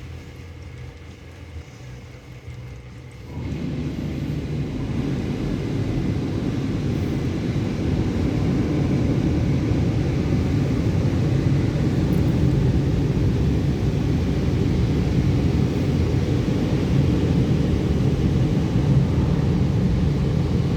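Automatic car wash machinery running around a car: a low steady rumble, then about three seconds in a loud steady rush of wash noise starts, builds for a few seconds and holds.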